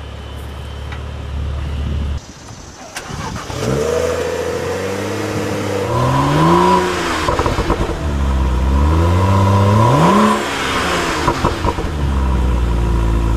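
Car engine idling, then revved up and down twice in rising and falling sweeps, settling back to a steady idle near the end.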